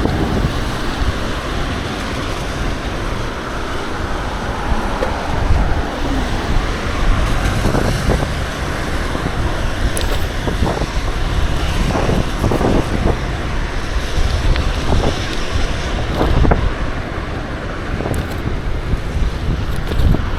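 Wind rushing over the microphone of a camera riding along on a moving bicycle, with a low steady road rumble underneath. A few brief knocks or rattles come through along the way.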